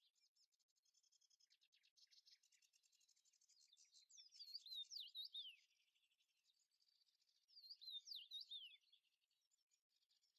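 Faint songbird singing: a thin high twittering, then two louder bursts of quick, falling whistled notes, about four and about seven and a half seconds in.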